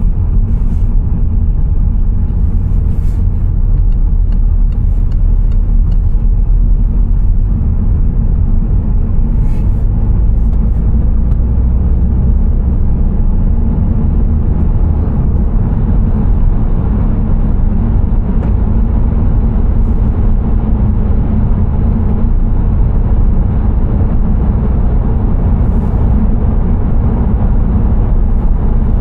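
Car driving on the road: a steady, loud low rumble of engine and road noise that holds even, with a few faint ticks.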